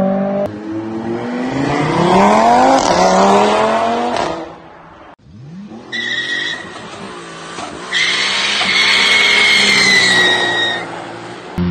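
Performance car engines revving hard, the pitch climbing steeply through the gears, then a high, steady squeal with a slight fall in pitch in the later seconds.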